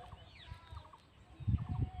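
Birds calling: short chirps in quick little groups and a few falling whistled notes, with low thumps about one and a half seconds in.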